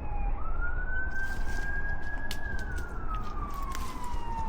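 A siren wailing in slow cycles. Its pitch sweeps up quickly, holds high, then slides down over about two and a half seconds before sweeping up again near the end.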